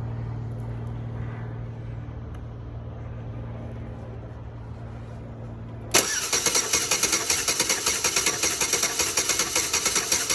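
A steady low hum, then about six seconds in the 2007 Chevy Impala's 3.5 L V6 is cranked over by its starter with a compression gauge fitted, without starting. It makes fast rhythmic chugging pulses for about four seconds that cut off abruptly. The cylinder under test builds about 200 psi, good compression.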